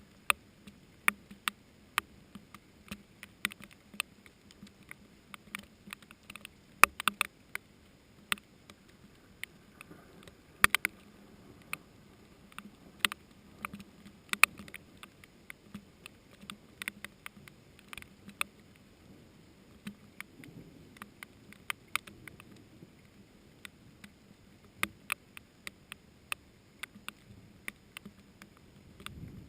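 Raindrops falling during a thunderstorm, heard as irregular sharp taps about one or two a second over a faint hiss of rain. A few heavier taps stand out around a quarter and a third of the way through.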